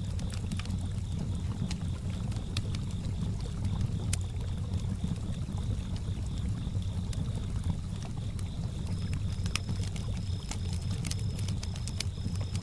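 Campfire crackling with scattered sharp pops over a steady low wash of lake water lapping. Crickets chirp in a faint high pulsing trill, plainest near the end.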